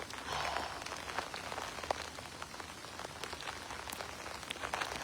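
Heavy rain falling steadily, an even hiss dotted with many sharp ticks of individual drops.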